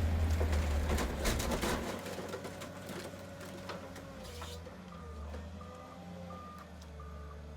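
Diesel engine of a heavy car-dismantling excavator running, with sharp metal knocks in the first two seconds. About five seconds in, a reversing alarm starts beeping, about one and a half beeps a second.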